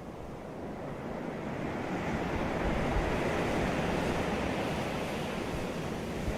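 Ocean surf washing onto a beach: the wave noise swells over the first couple of seconds, then holds as a steady wash.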